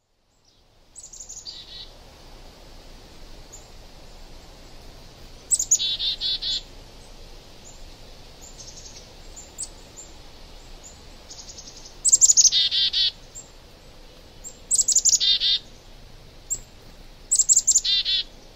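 A songbird singing: about five short phrases a few seconds apart, each dropping from a high note into a quick trill, over a faint steady hiss.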